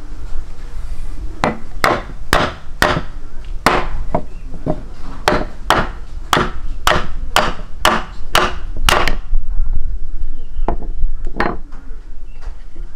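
A run of sharp knocks or blows, about two a second for some seven seconds, then a few scattered ones near the end.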